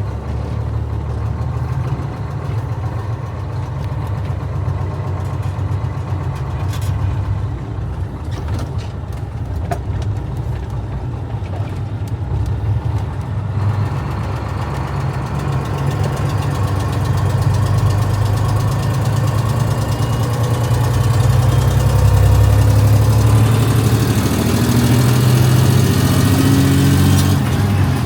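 Engine of a vehicle hauling a load of corn, running steadily on the road. It grows louder from about halfway through, and the pitch rises a couple of times near the end as the revs climb.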